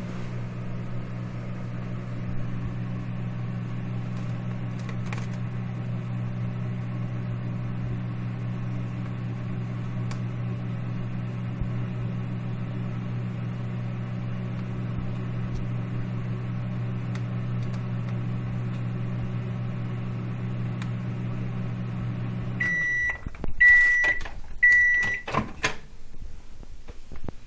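Microwave oven running with a steady hum, which stops about 23 seconds in. Three short high beeps about a second apart follow to signal the end of the cycle, then a couple of clunks.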